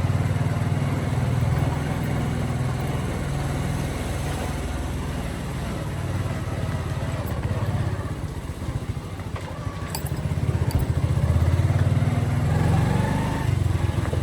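Motorcycle engine running as the bike is ridden along a street, with road noise. The engine note eases off about eight seconds in and picks up again about two seconds later.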